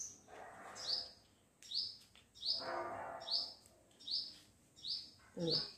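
A bird repeating a short, sharp, falling chirp about twice a second. Under it are soft rustles of hands pressing potting soil around a cutting in a plastic pot.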